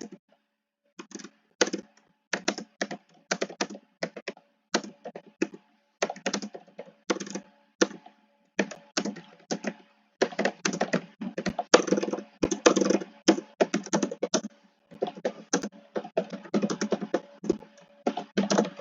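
Computer keyboard keys being typed in irregular bursts of clicks with short pauses between them.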